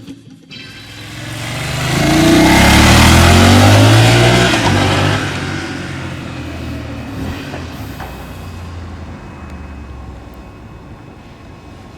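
BMW F 850 GS parallel-twin with an Akrapovic exhaust passing by: the engine note swells over about two seconds, peaks, then drops in pitch and fades away.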